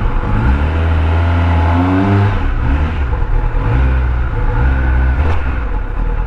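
Kawasaki Ninja ZX10R's inline-four engine pulling away at low speed, its note rising twice as the throttle is opened and eased off.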